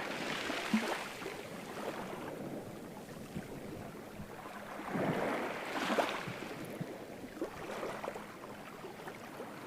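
Ocean waves washing in: a softer wash with small splashes, then a wave swells and breaks about halfway through before ebbing again.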